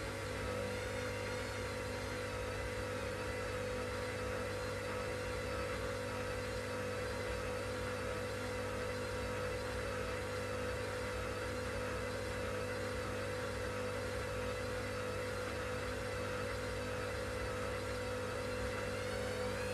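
Washing machine running: a steady motor hum with one strong steady tone and higher tones that waver slowly up and down. Right at the end a whine begins rising in pitch.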